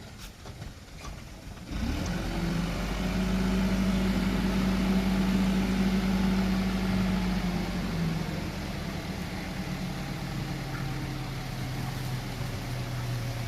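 Dump truck's diesel engine: its note jumps up suddenly about two seconds in, holds steady at a higher speed for several seconds, then drops to a lower steady speed near the end.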